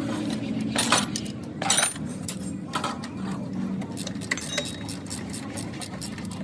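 Metal tools and parts clinking and tapping in a run of sharp clicks, with a few louder knocks in the first two seconds, over a steady low hum.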